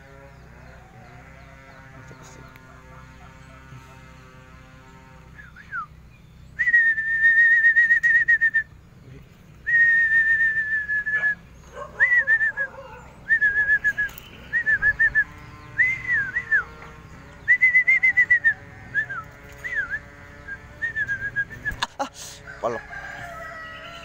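Caged bird calling loudly, starting about six seconds in: two long, steady notes, then a run of short notes that rise and fall. A faint steady hum sits under the first few seconds.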